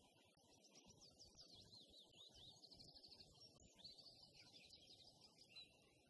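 Faint songbird song: quick high chirps sweeping downward, then two short rapid trills, one about halfway through and another soon after.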